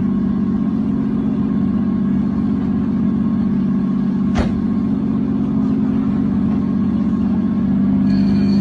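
A vehicle engine running at a steady speed with an even drone, and one sharp click about four and a half seconds in.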